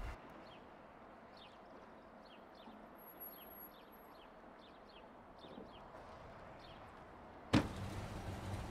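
Quiet forecourt ambience with faint light chirps. Near the end there is a sharp click, then a steady low hum of a gas pump dispensing fuel.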